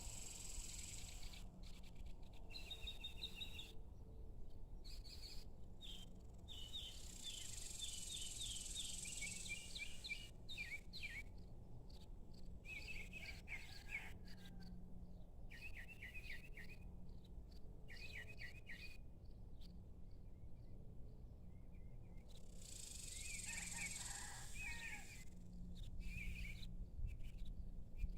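Small birds chirping and trilling in quick repeated phrases over a steady low background rumble, with a few spells of high, hissy buzzing.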